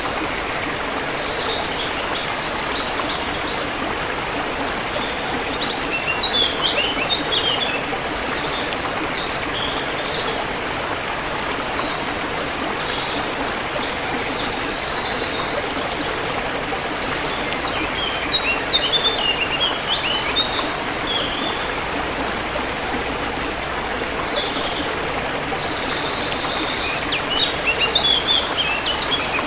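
Forest river flowing steadily, with small birds chirping over it in several bursts of quick, high chirps. The liveliest bursts come about six seconds in, just under twenty seconds in, and near the end.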